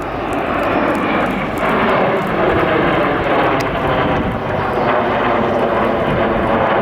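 Red Arrows' BAE Hawk T1 jets with Rolls-Royce Turbomeca Adour turbofans flying past in formation. The jet noise builds through the first second, then stays loud and steady.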